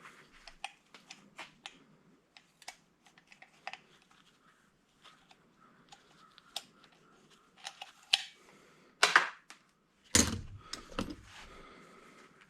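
Hand tools and small metal parts being handled on a workbench while an old angle grinder is taken apart: a run of light clicks and taps, then two louder clatters near the end.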